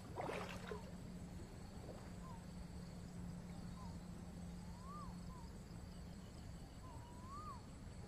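Faint short whistled calls from a bird, several times over, two of them rising and falling, over a steady low hum, with a brief noise right at the start.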